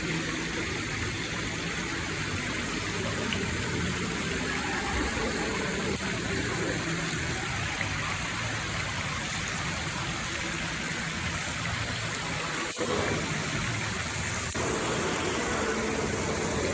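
Steady rush of running water, like a stream or fountain.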